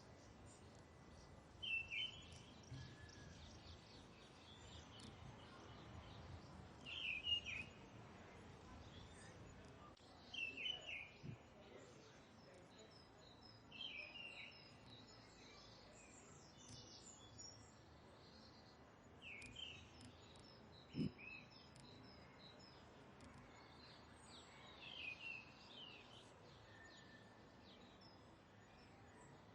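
Birds calling faintly: a short, sharp, downward-sweeping call repeated every few seconds, with fainter high chirps between. A single sharp click about two-thirds of the way through.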